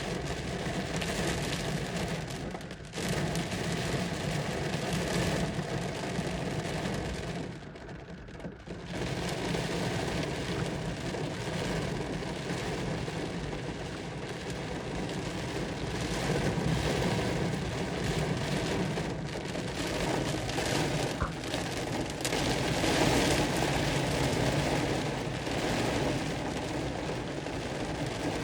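Heavy rain falling, a steady hiss that dips briefly about eight seconds in.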